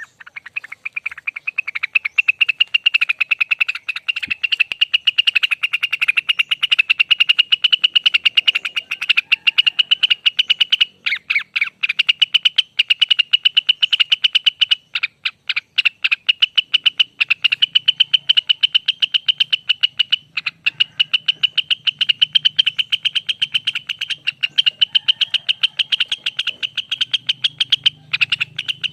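Cucak wilis (Rengganis) songbird singing a long, rapid rolling trill ('ropel'): fast, evenly repeated high notes with only a few brief breaks.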